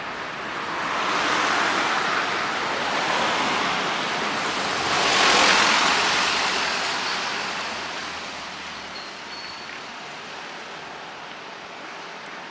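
A vehicle passing by: a broad rushing noise builds about a second in, peaks about five seconds in, then fades away to steady background traffic noise.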